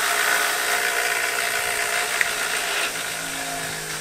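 Bench grinder with a wire brush wheel running, its motor humming under a steady scratchy hiss as a spark plug is scrubbed clean against the wheel. The scrubbing eases off about three seconds in, leaving the motor's hum.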